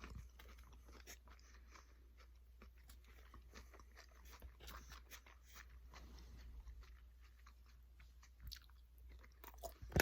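Faint chewing of crunchy food close to the microphone: many small, irregular crunches and crackles, over a steady low hum.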